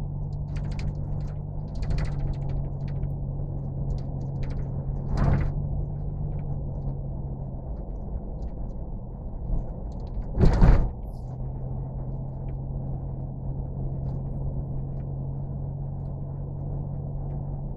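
A steady low mechanical hum with scattered clicks and knocks, a thud about five seconds in and a louder, heavier thud about ten and a half seconds in.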